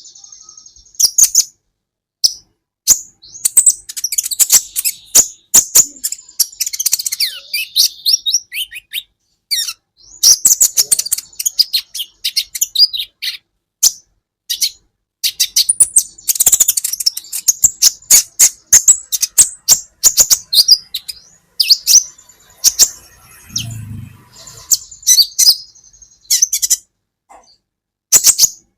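Kolibri ninja (a sunbird) singing: rapid, high-pitched chirps and twittering trills in bursts, with short pauses between them. A brief low thump sounds a little past the middle.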